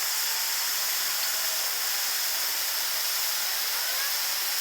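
Portable gas camping stove burner running with a steady high-pitched hiss.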